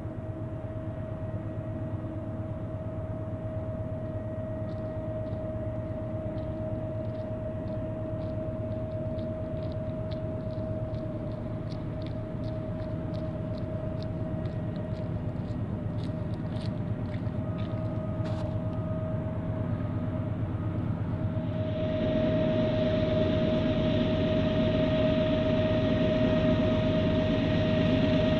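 Diesel railroad locomotive running with a steady whine over a low rumble, growing louder and fuller about 22 seconds in as the train draws closer.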